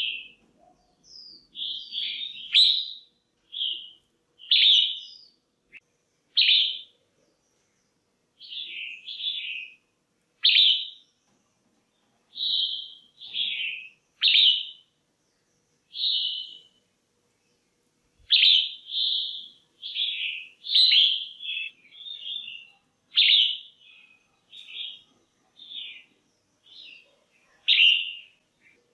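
Female red-whiskered bulbul giving short, loud chirping calls, about one a second, with a few brief pauses. These are calls of the kind played to stimulate male bulbuls or to pair birds.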